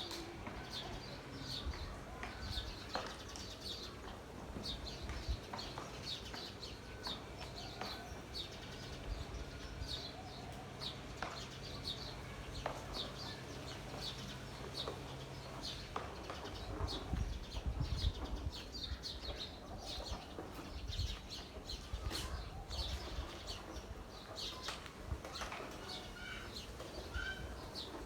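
Many small birds chirping, a steady chatter of short high chirps, with low thumps and rumble underneath now and then.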